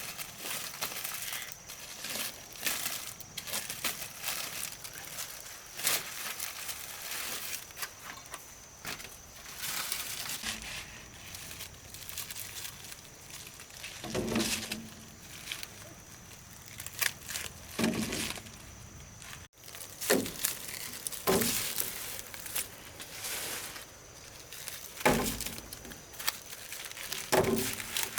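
Irregular dry crackling and rustling throughout, with a few louder snaps or thuds in the second half.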